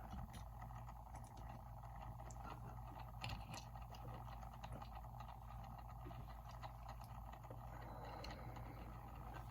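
Quiet room tone with a steady low electrical hum and a few faint light clicks scattered through.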